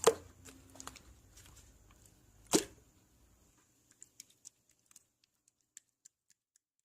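A few sharp close-up clicks or crunches, the loudest right at the start and another about two and a half seconds in, followed by faint scattered ticks.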